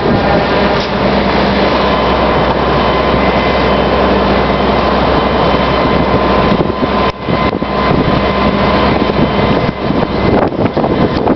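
Fire truck engine running steadily under loud rushing noise, with a brief dip in level about seven seconds in.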